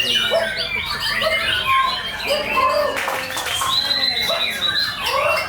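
White-rumped shama singing a continuous, varied song of quick whistles, rising and falling glides and rapid repeated notes.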